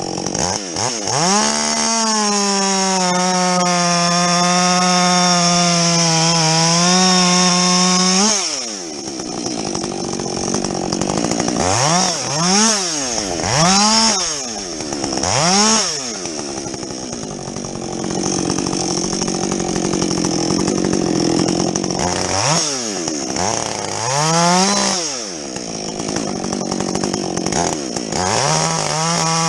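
Husqvarna 562XP two-stroke chainsaw with a modified muffler revving up and held at high revs for about six seconds, its pitch sagging slightly as if under load in a cut, then dropping to idle. Several short throttle blips follow, and it revs up again near the end.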